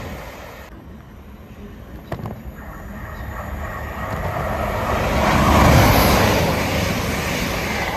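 A Chiltern Railways diesel multiple unit approaches and passes through close by. Engine and wheel noise build to a peak about six seconds in, then ease off. Before it, a departing train's sound fades away in the first second, and a single sharp click comes just after two seconds.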